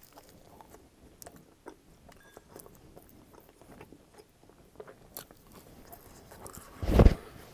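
Close-miked chewing of crunchy pizza crust: soft, irregular crunches and mouth sounds. About seven seconds in there is one short, louder low thump.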